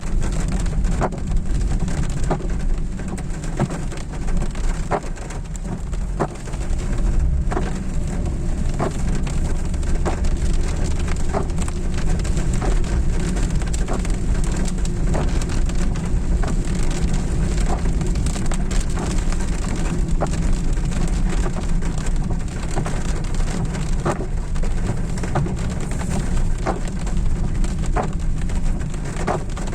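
Rain falling on a moving car: irregular drops ticking against it over a steady low rumble of road and engine.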